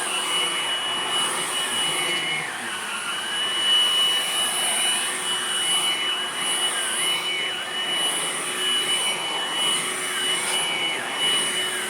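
Hoover vacuum cleaner running with a new brush roll fitted, a steady airflow rush under a constant high whine, its pitch wavering up and down every second or so.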